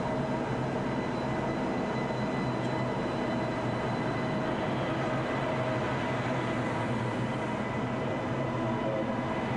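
ICE 1 high-speed train pulling out of the station past the platform: a steady hum of the moving train with a few even whining tones from its power car.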